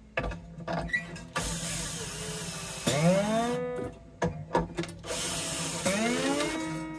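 Bosch drill whirring in short runs as it power-winds steel strings onto an acoustic guitar's tuners. The string's ringing pitch glides upward as it is pulled tight, twice, with a few clicks and knocks between.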